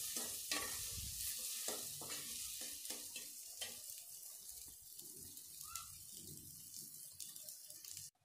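Onions and spice pastes sizzling in oil in an aluminium pot, stirred with a metal spatula that scrapes the pot about twice a second at first. The stirring grows quieter and sparser after about three seconds. This is the pastes being fried to cook off their raw smell.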